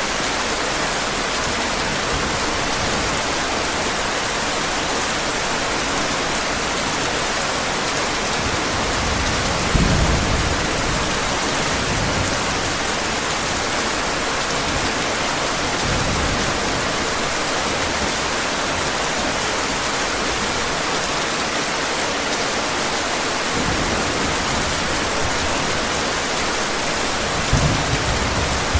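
Steady heavy rain with low rolls of thunder, one about ten seconds in and another near the end.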